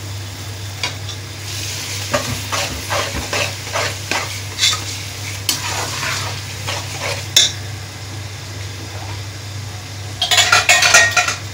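Onions, garlic paste and tomatoes sizzling in oil in a metal pressure cooker pot, stirred with a steel spatula that scrapes the bottom in irregular strokes. About ten seconds in comes a quick flurry of louder scrapes and knocks of the spatula against the pot.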